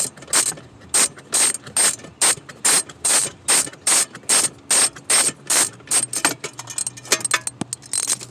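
Hand socket ratchet clicking in even strokes, about two and a half a second, as it backs out a bolt holding the ECU to its bracket; after about six seconds the clicks turn quicker and lighter as the bolt loosens.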